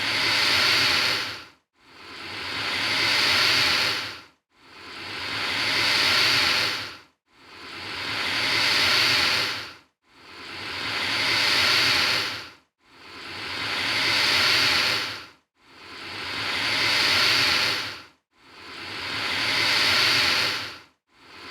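Alligator hissing: the same breathy hiss repeated about every three seconds, each one swelling and then cutting off sharply.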